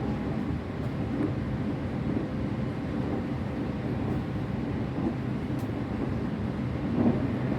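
Local train running between stations, heard from inside the passenger car: a steady low rumble of wheels on rails, with a brief louder bump near the end.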